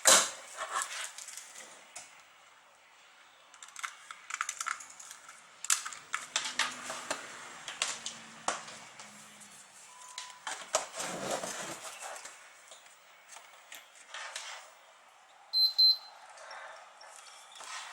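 Irregular clicks, taps and light metallic rattles of computer hardware being handled, such as a PC power supply and its screws, with a brief high-pitched tone about three-quarters of the way through.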